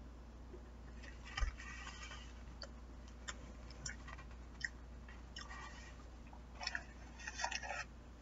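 A person chewing a mouthful of food: scattered soft clicks and short smacking, rustling bursts, busiest about a second in and again near the end, with a single thump about a second and a half in, over a low steady hum.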